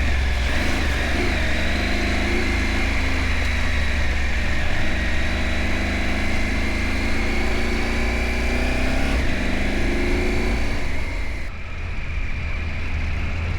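Adventure motorcycle engine running while riding, its pitch rising and falling with the throttle, over heavy wind rumble on the microphone. About 11 seconds in the engine tone drops away and the sound changes abruptly.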